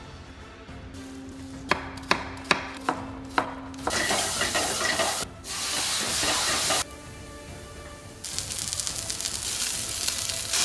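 Five sharp knocks about two a second over a low steady hum, then food sizzling in a hot pan in long bursts: diced onion frying in a stainless steel pan, and near the end a block of bluefin tuna searing in oil.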